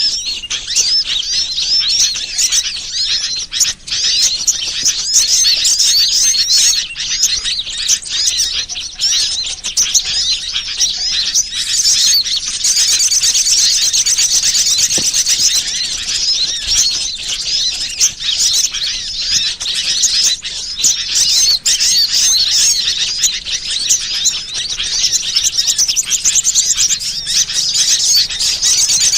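Bird-lure (pikat) recording: a dense, continuous chorus of many small birds chirping and twittering high, the calls overlapping without a break.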